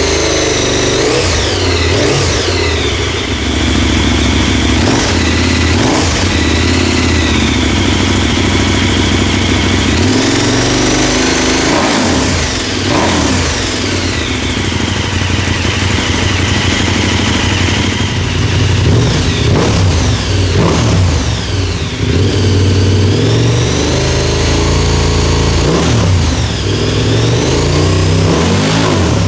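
KTM 1290 Super Adventure S's 1301 cc V-twin engine, fitted with an Arrow Sonora aftermarket exhaust, revved repeatedly while standing. There are quick throttle blips and a couple of longer held revs, each dropping back to idle.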